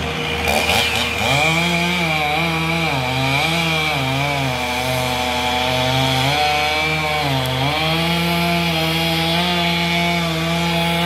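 Chainsaw running while cutting into a tree, its engine pitch dipping and recovering again and again as the bar bogs under load.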